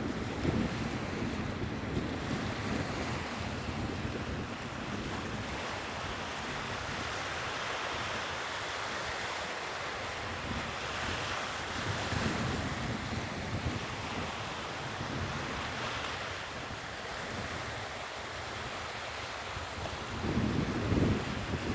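Sea waves washing on the shore, the surf swelling and easing, with wind buffeting the microphone in gusts near the start and near the end.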